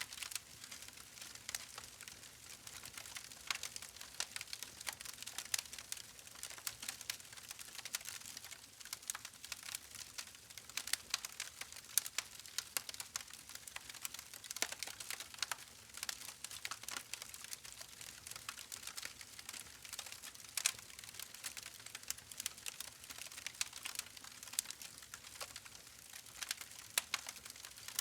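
Wood fire crackling: dense, irregular small pops and snaps over a soft hiss.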